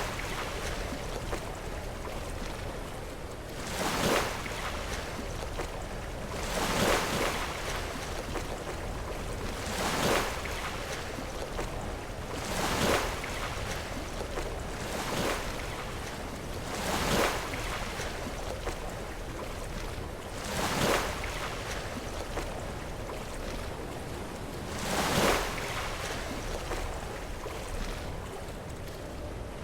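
Sea waves breaking against shoreline rocks, a brief splash every two to four seconds over a steady wash of surf.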